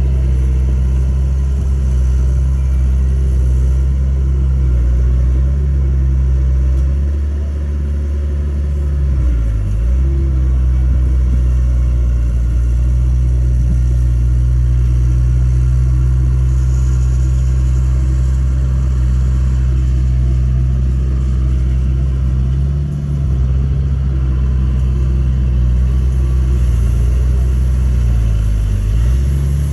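Heavy diesel engine running steadily, its speed sagging briefly and recovering about ten seconds in and again near the end.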